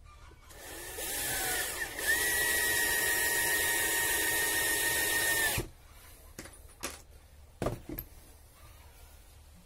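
Electric drill running at a steady high speed for about three and a half seconds, then stopping abruptly. A few light knocks follow.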